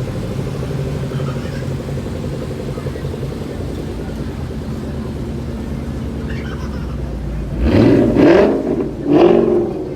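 A car engine idling steadily, then revved hard twice in quick succession near the end, its pitch rising with each rev.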